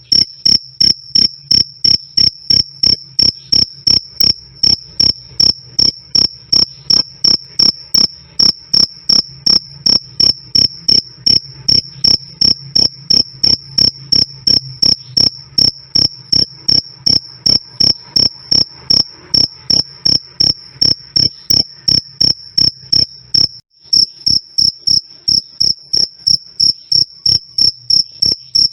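A male cricket chirping loudly and clearly: a steady, even train of short, high-pitched chirps, about two and a half a second, with a brief break near the end.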